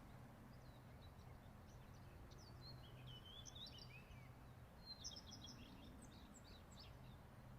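Faint songbird song: quick, high chirping and trilled phrases in two spells with a short pause between, over a steady low hum.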